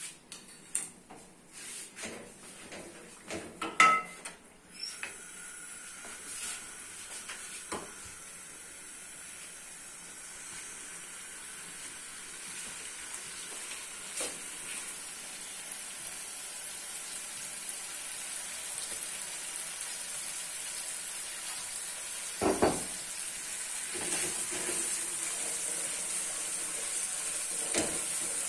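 Spiced curry base sizzling as it fries in hot oil in a cooking pot, the sizzle slowly growing louder. A metal spoon clinks and knocks against the pot several times in the first few seconds, and it scrapes and knocks twice more near the end.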